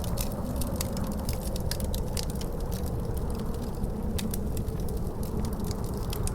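Wood fire crackling in a fireplace, with frequent sharp pops, over a steady rumble of wind with a faint, slowly falling howl.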